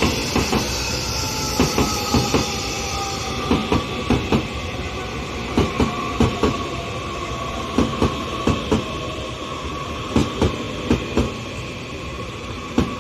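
Taiwan Railways EMU3000 electric multiple unit entering the station and slowing as it passes close by: wheels clack over rail joints in groups about every two seconds, under steady rolling noise. An electric whine slides down in pitch, then levels off.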